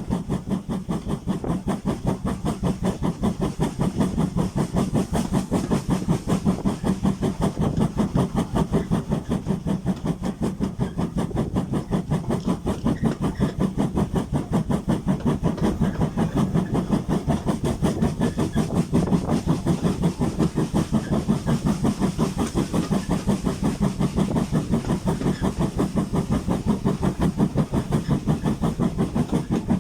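GWR Hall-class steam locomotive 4953 'Pitchford Hall' running steadily under way, with a fast, even beat and a hiss of steam.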